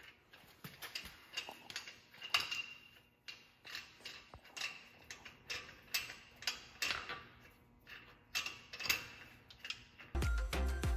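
A series of irregular sharp clicks, about one or two a second, from hand work on a truck. Music with a heavy bass beat comes in near the end.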